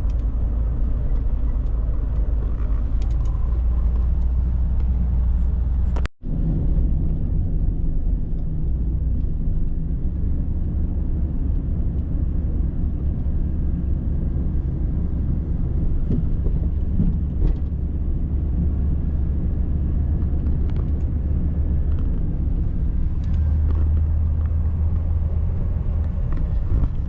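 Steady low rumble of a 1989 Chevy G20 van on the move: engine and road noise heard from inside the cab, broken by a momentary drop-out about six seconds in.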